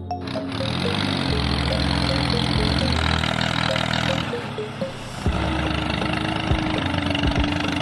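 A motor or engine running steadily, its sound shifting about four seconds in, under background music with a repeating melody.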